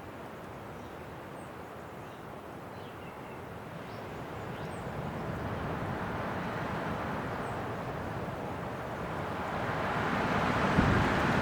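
Winter wind blowing steadily, then a gust building and growing louder through the second half.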